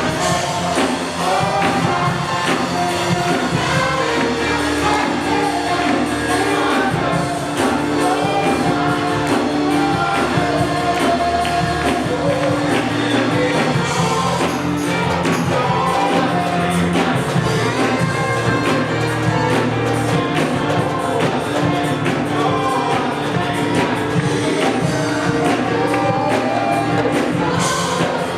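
Worship music: a band with drums plays and singers sing.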